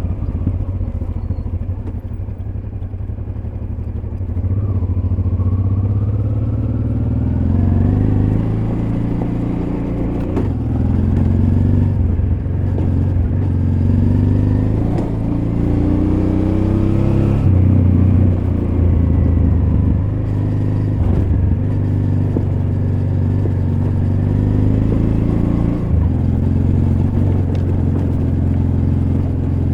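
Honda Transalp XL600V's V-twin engine running on a dirt road, its pitch rising and falling every few seconds with throttle and gear changes. A few knocks and clatter are heard along the way.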